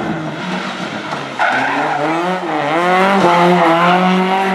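Classic rally car engine held at high revs through a hairpin, its pitch wavering but fairly steady. Tyre squeal and scrub join suddenly about a second and a half in as the car slides through the turn.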